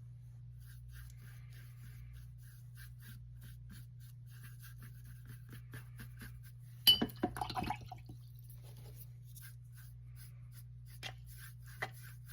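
Acrylic paintbrush dabbing and stroking on canvas in quick, light, scratchy strokes while blending paint. About seven seconds in comes a sharp knock and a brief clatter, the loudest sound here. A faint steady hum runs underneath.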